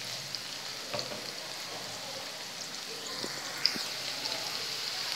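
Cubed potatoes sizzling steadily in hot oil in a pan, with a couple of light knocks of a wooden spatula about a second in and again near four seconds.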